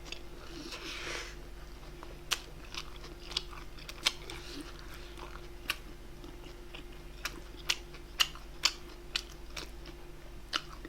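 Close-miked chewing of grilled bulgogi: irregular wet mouth clicks and smacks, about a dozen spread unevenly, with a short rustling sound about a second in. A faint steady hum runs underneath.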